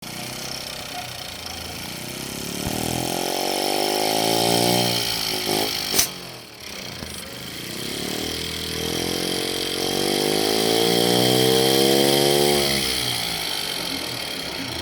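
Small model nitro engine converted to run on compressed air, over a steady high hiss; it speeds up and slows down twice, with a sharp click about six seconds in, between the two runs.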